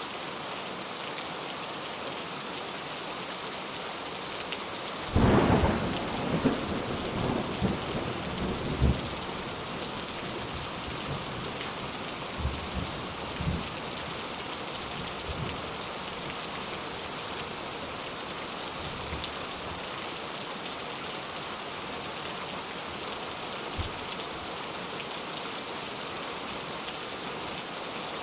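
Steady rain falling with a continuous hiss. About five seconds in, a thunderclap breaks suddenly and rumbles on in several rolls for about four seconds, followed by fainter distant rolls of thunder.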